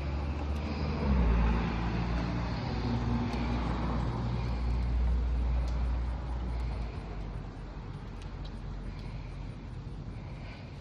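A motor vehicle's engine running with a steady low hum that fades away about seven seconds in, over a hiss of falling hail and rain with a few sharp ticks of hailstones striking.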